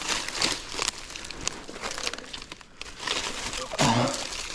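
Dry leaves and brush rustling and crunching underfoot in irregular crackles while scrambling up a steep slope, with a brief louder sound about four seconds in.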